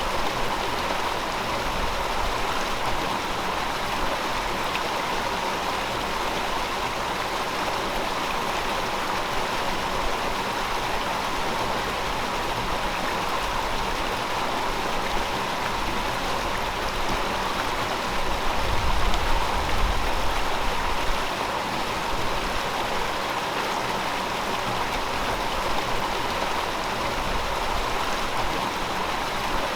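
River water flowing steadily over rocks, a continuous rushing and burbling. Near two-thirds of the way through, a deeper rumble swells for a few seconds.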